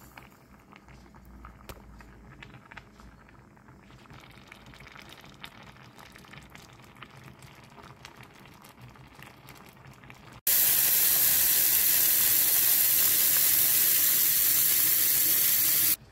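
Quiet handling with a few light clicks. Then, about ten seconds in, minced meat and pepper filling starts sizzling loudly in the stainless steel pot, an even hiss that cuts off abruptly near the end.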